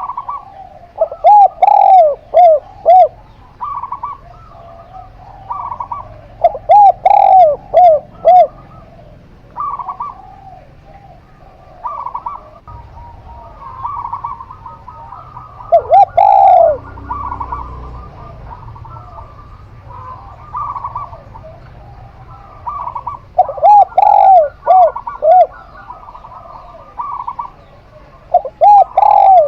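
Zebra dove and spotted dove cooing: every few seconds a burst of four or five quick arched coo notes, one longer falling coo about halfway, and shorter single coos repeated in between.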